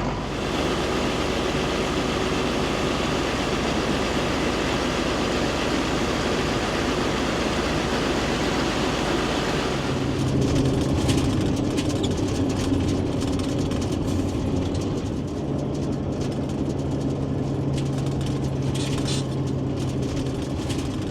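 A vehicle engine running steadily under a dense rushing noise. About ten seconds in the rushing thins, and a steady low engine hum comes forward.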